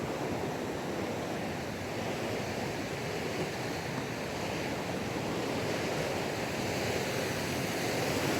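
The Oyacachi River rushing, a steady water noise that grows slowly louder.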